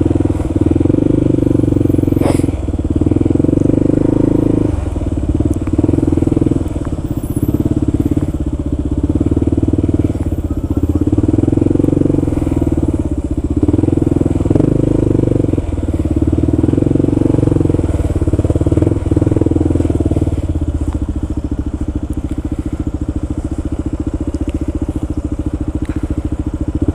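Kawasaki KLR650's single-cylinder four-stroke engine running under way, its note dropping and picking up again every second or two with throttle and gear changes. About 21 seconds in it settles to a steadier, slightly quieter drone.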